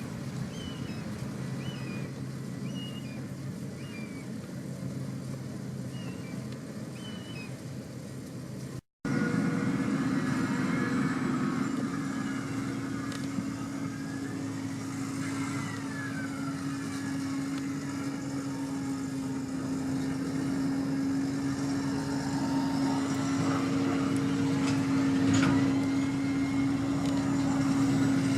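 Heavy farm machinery running steadily with a diesel engine hum. After a brief dropout about nine seconds in, a louder, steady drone with a strong even hum takes over and grows slightly louder toward the end.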